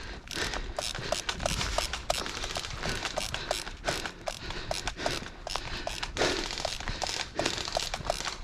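Paintball markers firing: a run of sharp, irregular pops, several a second, over a low rumble.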